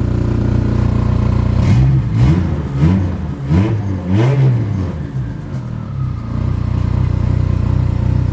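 Turbocharged 2.4-litre four-cylinder of a Dodge Neon SRT-4 idling. About two seconds in it is blipped through about five quick revs, then settles back to a steady idle. Heard from inside the cabin, its loud exhaust runs right under the floor.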